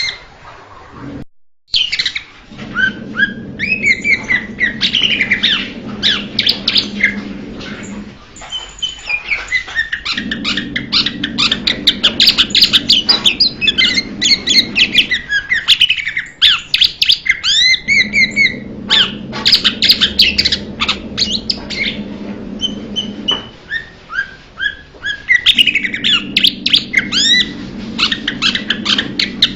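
Blue-winged leafbird singing: a rapid, varied stream of high chirps, whistles and slurred notes broken by short pauses, over a low background hum that comes and goes.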